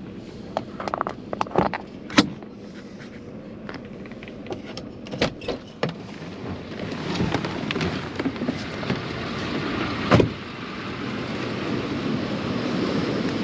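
Getting out of a pickup truck: a string of door and handling clicks and knocks, and a heavier thump about ten seconds in, likely the truck door shutting. Wind and ocean surf noise grow louder through the second half.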